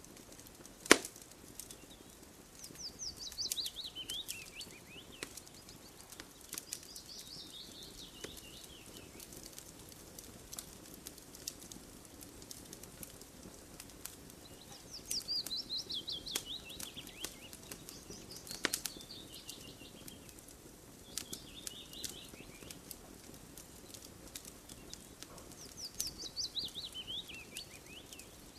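Campfire crackling with sharp, scattered pops, over a faint steady low hiss. A songbird sings a quick trill that falls in pitch, three times about eleven seconds apart, with a shorter phrase between.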